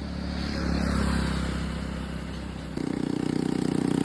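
Motorcycle engine running and growing louder; about three-quarters of the way in its note turns stronger and rapidly pulsing, like the engine being given throttle.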